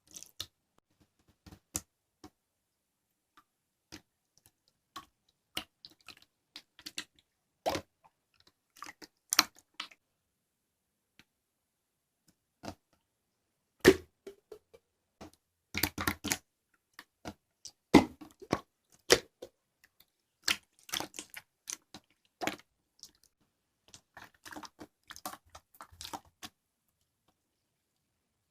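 Slime being pressed and pulled by hand, giving irregular sticky clicks, pops and crackles, sometimes in quick clusters.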